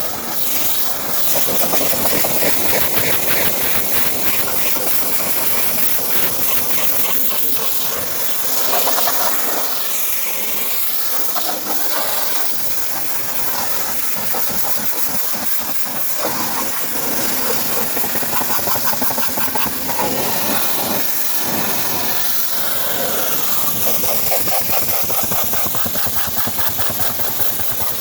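Steady hissing of a car-cleaning machine's jet, with a motor running underneath and the sound shifting as the jet moves over surfaces.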